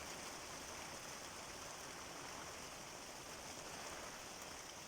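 Steady rain falling, a faint, even hiss.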